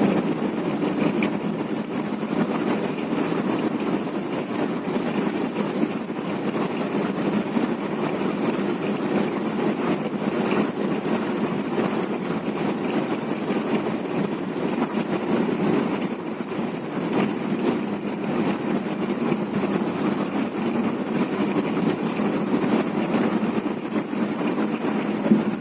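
Intercity bus on the move: steady engine and road noise.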